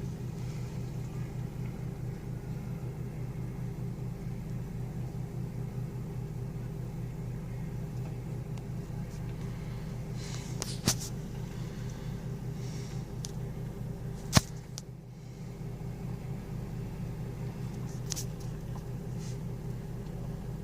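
A vehicle engine running steadily, a constant low hum, with two short sharp clicks partway through, the second louder.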